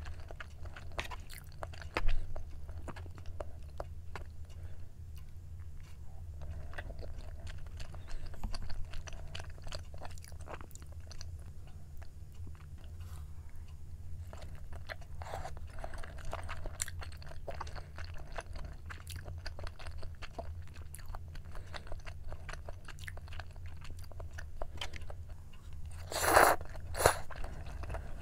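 Close-up mouth sounds of a person biting and chewing braised chicken jjimdak (Korean steamed chicken with glass noodles and vegetables), many small wet clicks and smacks. Near the end come two louder sharp sounds.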